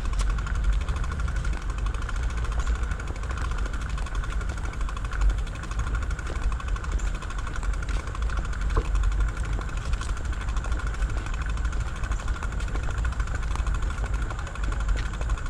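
Riding a bicycle with the camera mounted on the bike: a steady deep rumble of wind and road vibration on the microphone, with a constant whirring hum above it.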